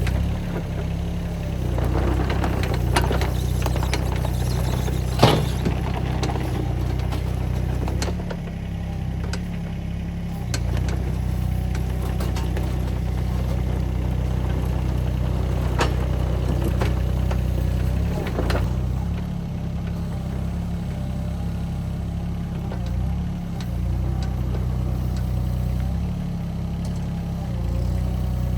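An engine running steadily, its note dipping and recovering a few times, with scattered sharp knocks and clanks; the loudest knock comes about five seconds in.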